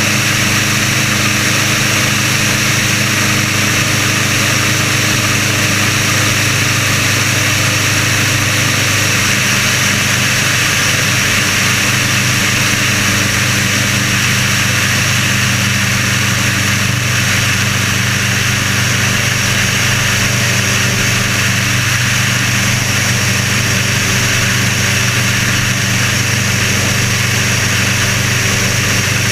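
The Sonerai's air-cooled Volkswagen flat-four engine running steadily and driving the propeller. The engine is new and in its break-in period.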